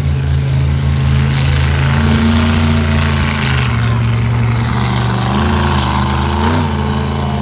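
Monster truck engine running loud and mostly steady, with a brief waver in pitch near the end.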